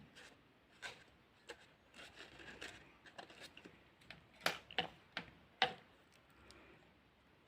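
Faint paper rustling and light taps of fingers pressing small paper dots onto a glued paper mushroom cap, with a few sharper clicks past the middle.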